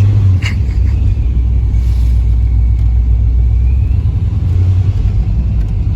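ProCharger-supercharged V8 of a C6 Corvette rumbling at low revs. Its pitch drops just after the start and comes back up briefly near the end.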